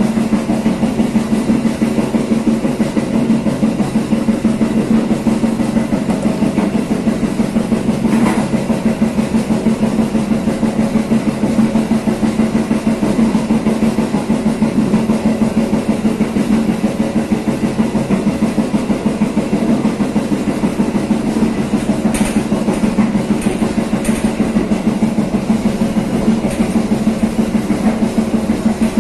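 Passenger train running, heard from the rear of the train: a steady, fast, even drumming pulse over a low hum. There is a sharp clank about eight seconds in and a few more around twenty-two to twenty-four seconds.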